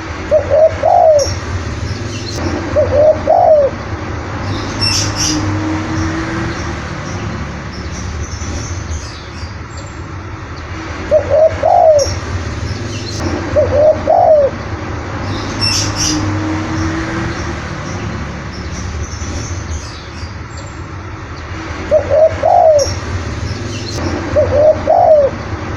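Spotted dove cooing: a two-part coo phrase heard three times, about every ten seconds. Small birds chirp faintly in the background over a steady low hum.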